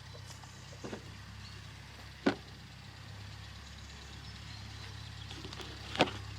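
A few scattered sharp knocks, the loudest about two seconds in, over a steady low hum.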